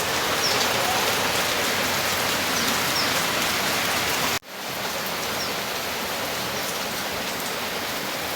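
Steady rain falling, an even hiss. About halfway through the sound cuts out for an instant and comes back a little quieter.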